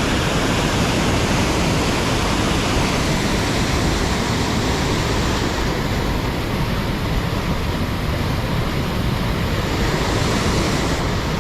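Steady rush of river water pouring over a weir, a loud even wash of noise.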